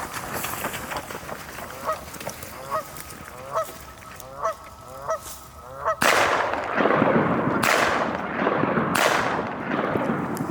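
Goose honking: a string of short two-note honks, about one a second, followed about six seconds in by a sudden, much louder stretch of harsh honking with a rushing noise that surges three times.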